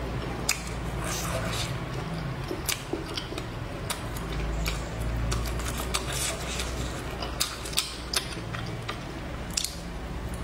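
A person chewing a skewered grilled sausage close to the microphone: wet mouth smacks with irregular sharp clicks.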